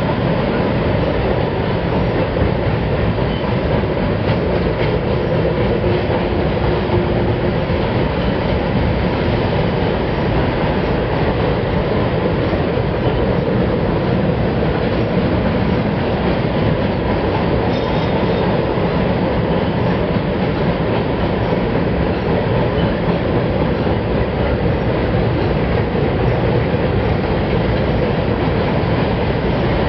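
Freight train cars rolling past in a steady, unbroken rumble, with no single clank or horn standing out.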